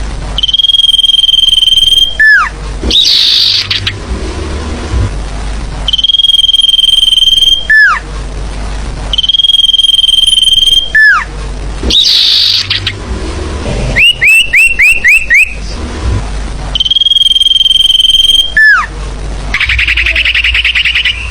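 Recorded forest-bird lure calls: a long, steady high whistle of about a second and a half that ends in a sharp downward slide, repeated five times. Buzzy chattering calls come between the whistles, and a quick run of five rising chirps sits about two-thirds of the way through.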